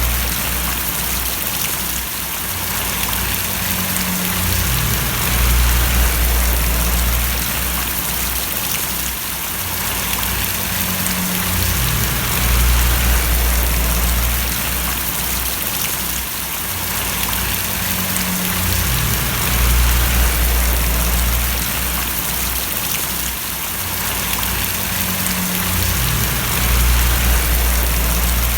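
Steady rain falling and splashing in an even hiss. Under it, a low rumble swells and fades about every seven seconds.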